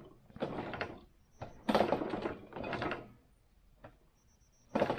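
Snowblower parts being worked by hand to test an adjustment: two bouts of metal sliding and clunking, then a single small click.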